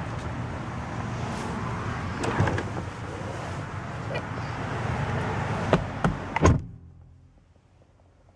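Car door of a 1997 Mercedes-Benz S500 being handled with a few clunks and then shut about two-thirds of the way through, after which the outside noise drops away to the quiet of the sealed cabin.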